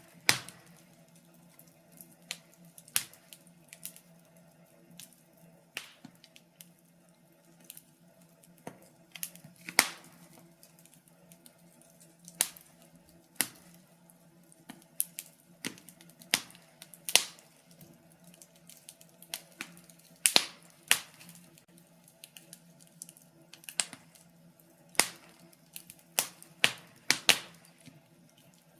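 Wood fire crackling, with irregular sharp pops, some loud and some faint, coming every second or so and clustering more thickly near the end, over a faint steady low hum.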